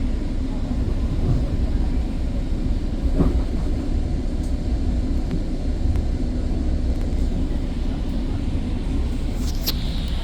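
Steady low rumble of a GO Transit diesel commuter train.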